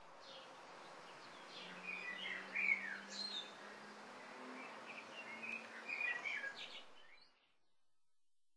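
Birds chirping over a steady background hiss, in short bright calls scattered through the middle, with the sound fading in at the start and dropping away about seven seconds in.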